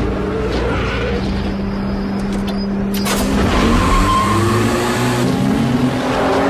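Sports car engines racing at high revs: the engine note holds steady, then after a sharp crack about halfway through the pitch climbs again as the engines rev up.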